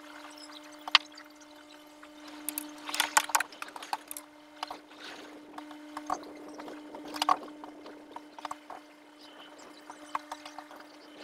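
Raindrops ticking and tapping irregularly on a hard surface close by, in scattered single ticks and short clusters, over a steady hum.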